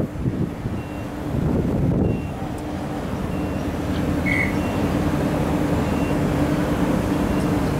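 Queensland Rail electric train running, with a low rumble and a steady hum that sets in about a second and a half in and holds. A short high beep sounds about four seconds in.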